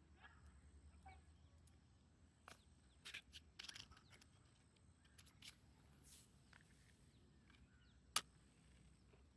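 Near silence outdoors with a faint low hum and a handful of short, sharp clicks and crackles, bunched around three to four seconds in, the sharpest one about eight seconds in.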